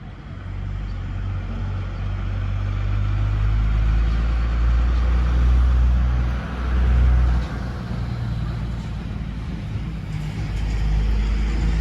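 Heavy truck passing on the road, its engine running with a low steady hum under tyre and road noise that grows louder toward the middle and then eases off.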